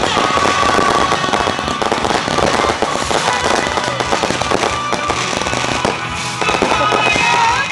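Fireworks going off in a dense, rapid string of crackles and bangs, over background music.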